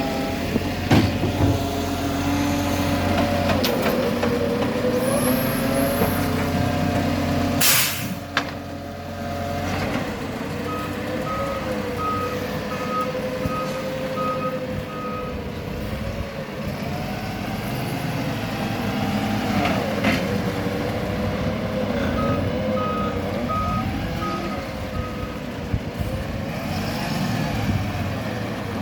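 Garbage truck engine running, its pitch rising and falling, with a sharp air-brake hiss about eight seconds in. The reversing beeper sounds in two runs of steady beeps, one starting about eleven seconds in and another about twenty-two seconds in.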